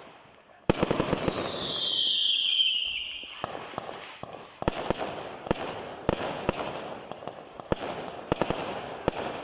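Aerial fireworks going off. A sharp bang comes just under a second in, then a high whistle that falls slightly in pitch, then a quick run of sharp bangs and crackling pops.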